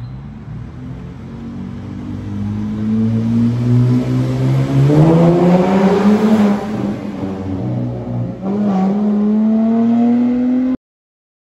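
VZ Commodore SV6's LY7 Alloytec 3.6-litre V6 through a 2.5-inch Hurricane catback exhaust (centre mufflers only, no rear mufflers), accelerating past in a tunnel. The engine note climbs in pitch to its loudest about five to six seconds in, drops briefly, then climbs again under acceleration.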